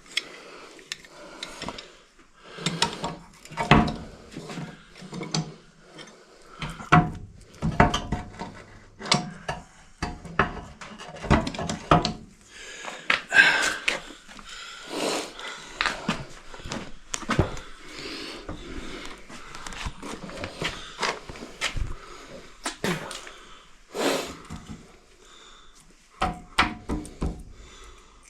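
Irregular clinks and knocks of metal parts being handled while a pin and washers are worked into a tractor lift cylinder's mount.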